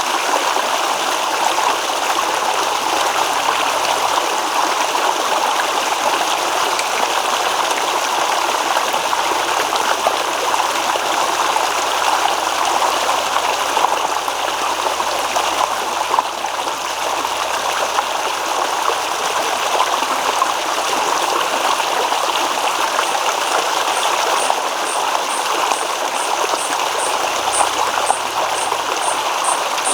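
A babbling stream: water rippling and gurgling over stones, steady throughout. About three-quarters of the way in, a high, regular chirping joins it, a little over two chirps a second.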